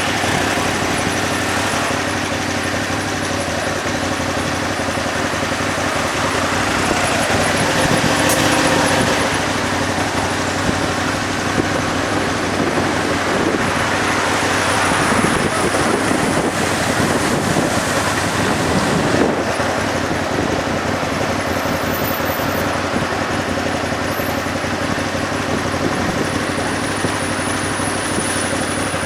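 Motorcycle engine running steadily, with road and traffic noise over it that swells twice, about eight seconds in and again in the middle.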